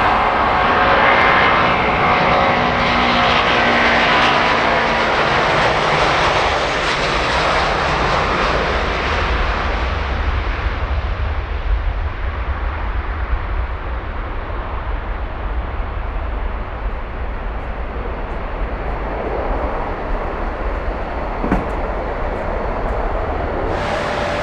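Jet airliner engines passing with a loud rush and some whining tones at first, then slowly fading into a duller, distant rumble.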